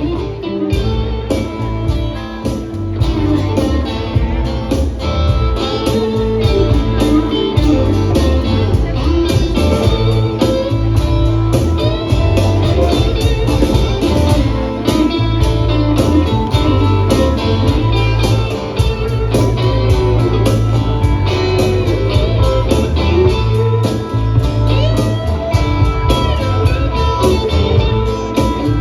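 Live band playing an instrumental passage of a blues-rock song: guitars over bass guitar and percussion, with no singing.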